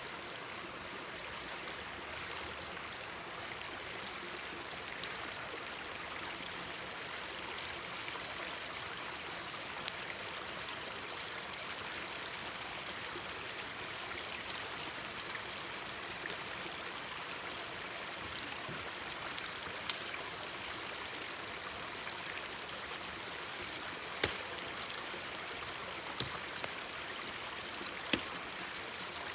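Mountain stream babbling steadily, with a wood campfire giving several sharp crackling pops now and then over it.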